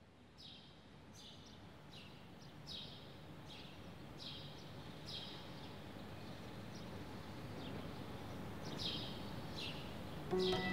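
Outdoor ambience of steady background noise with a bird calling over it: short high chirps, each dropping in pitch, about one or two a second. The ambience fades up from silence and grows louder, and sustained music notes come in near the end.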